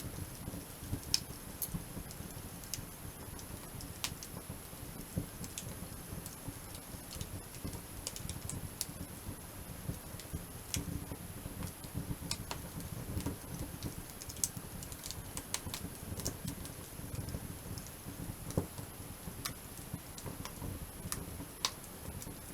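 Wood campfire burning, with irregular crackles and pops over a low, steady rumble of flame.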